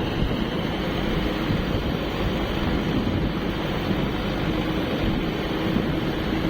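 Diesel engine of heavy farm or construction machinery running steadily, with a dense rumble and a faint steady hum.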